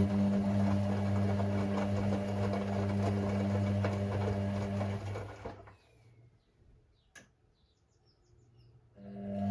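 Hoover Six Sportswear 1300 AI130 washing machine tumbling its drum during the wash: the motor hums steadily with the load and water churning, stops about halfway through, a single click sounds in the pause, and the motor starts the drum turning again near the end.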